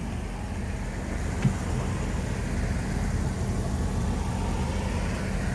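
Steady low hum of an idling engine, with a faint single click about a second and a half in.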